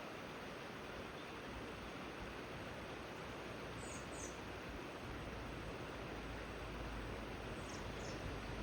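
Steady rush of flowing river water, with a small bird giving a pair of short, high chirps about four seconds in and another pair near the end. A low rumble grows over the second half.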